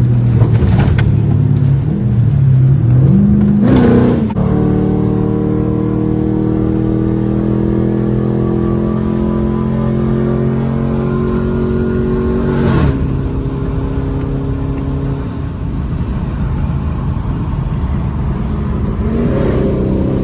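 Dodge V8 muscle car engine under way. Its pitch shifts as it revs for the first few seconds, then it settles into a long steady drone. A brief sharp noise cuts through about four seconds in and again about thirteen seconds in.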